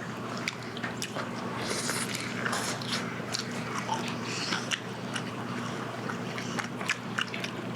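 Close-miked chewing and biting of charcoal-grilled chicken, heard as many short irregular clicks.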